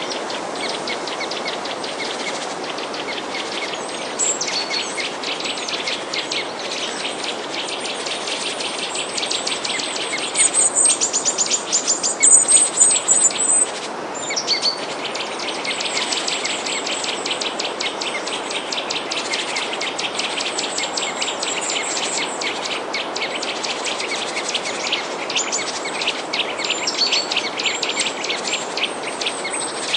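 Many small birds chirping together in a dense, continuous chorus of rapid high chirps, louder and shriller for a few seconds about eleven seconds in, over a steady hiss.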